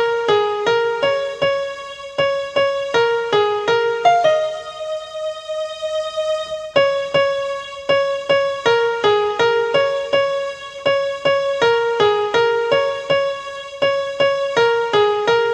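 Electronic keyboard in a piano voice playing a song melody as single notes: a quick run of notes, a long held note about four seconds in, then the same phrase again from about seven seconds.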